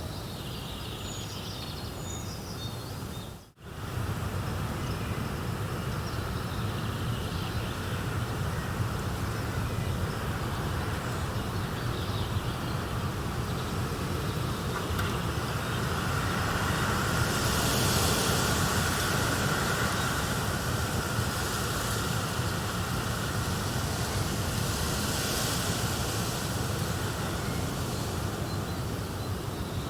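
Steady nature ambience: a continuous noisy hiss over a low rumble, with a few faint high chirps in the first couple of seconds. The sound cuts out sharply for a moment about three and a half seconds in, then swells louder twice later on.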